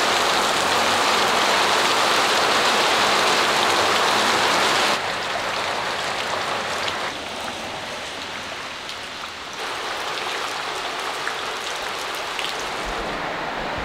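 Steady rain falling, with a few individual drops ticking through it. The rain is louder for the first five seconds, then drops to a lower, even level.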